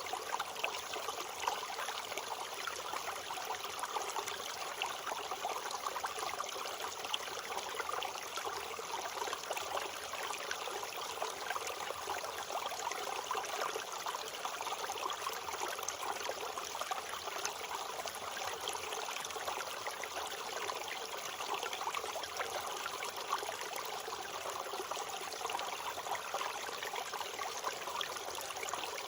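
A stream running: steady babbling and trickling water with no let-up.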